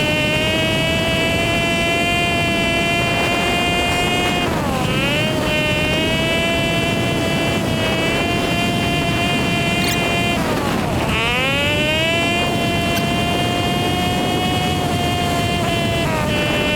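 Hawk 250 dual-sport motorcycle's single-cylinder engine running under way, with wind and road noise. The engine pitch steady, then dips and climbs back twice, about five and eleven seconds in, as the rider eases off and gets back on the throttle or changes gear.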